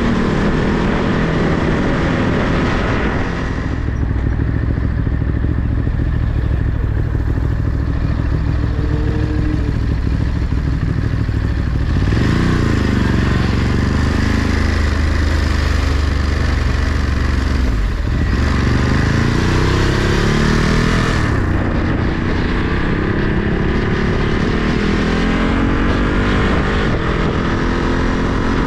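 Ducati Monster 937's L-twin engine running under way, its pitch falling and climbing with throttle and gear changes about twelve and eighteen seconds in, with steady wind noise from riding.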